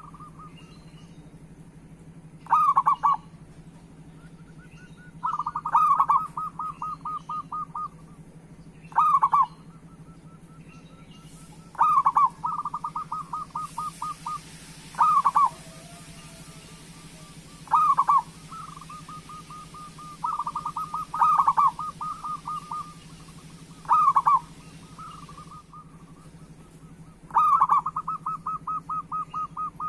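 Zebra dove (perkutut) cooing: a loud call every two to three seconds, several of them running on into a quick string of shorter, softer notes. A steady low hum sits underneath, and a hiss comes in for about the middle ten seconds.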